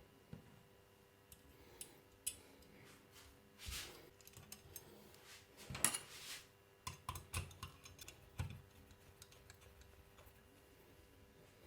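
Light, scattered metal clicks and clinks of small parts and hand tools being handled while assembling a model turbojet engine, with a few brief rustles; the loudest cluster comes about six seconds in.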